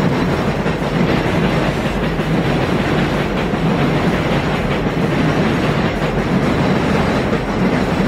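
New York City subway train running along the track, a steady, unbroken rumble of wheels on rails.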